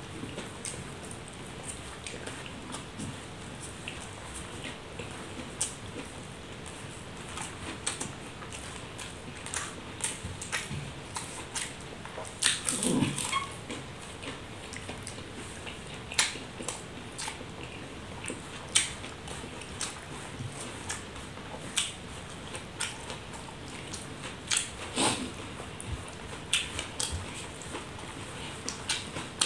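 Close-up eating sounds: a man chewing mouthfuls of rice eaten by hand, with irregular wet smacks and clicks of the lips and mouth over a steady low hiss. A louder, fuller smack comes about halfway through, and another about three quarters through.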